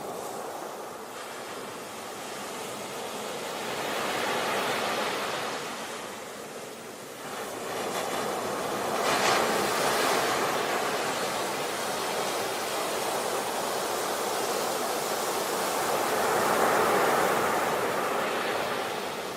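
A steady rushing noise that swells and fades in slow surges every few seconds, with a brief sharper hiss about nine seconds in.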